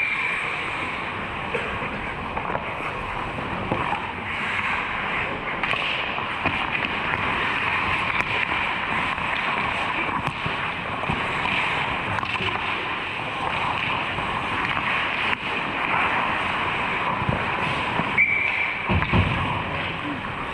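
Ice hockey game sound: skates scraping and carving on the ice, with scattered knocks of sticks and puck over a steady rink hum. A short high tone sounds briefly near the end.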